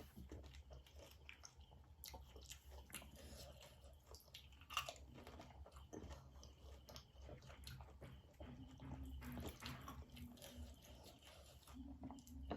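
A person chewing and crunching panipuri, the crisp fried puri shells crackling between the teeth in short faint bites, with one sharper crunch about five seconds in. A steady low hum lies underneath.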